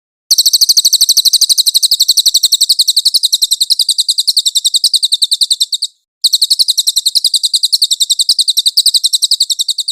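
Cililin songbird singing two long, very high-pitched trills of rapid, evenly repeated notes, broken by a short gap near the middle.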